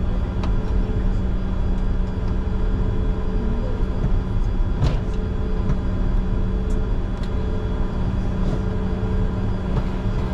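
Steady cockpit noise of a Bombardier Challenger 605 taxiing: the hum of its GE CF34 turbofans at taxi power over a low rumble, with a single sharp click about five seconds in.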